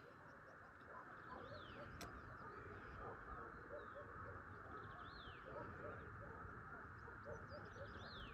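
Faint birdsong in the forest: a high whistled note that slides down in pitch, heard three times, with short lower chirps from other birds over a steady background hiss.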